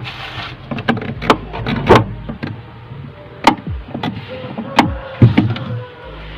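Handling noise from work on a refrigerator: a string of sharp, irregular knocks and clacks over a steady low hum.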